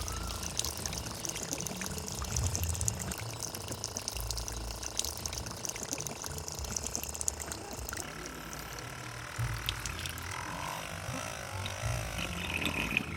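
Water gushing and splashing as a small water pump discharges it. About two-thirds of the way through the splashing softens and a faint wavering tone comes in.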